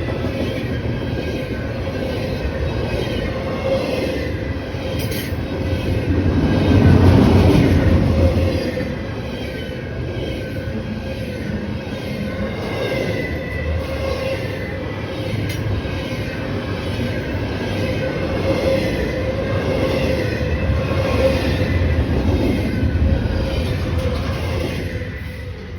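A train running along the rails, a continuous rumble with a steady tone and a faint wavering whine above it, swelling loudest about seven seconds in.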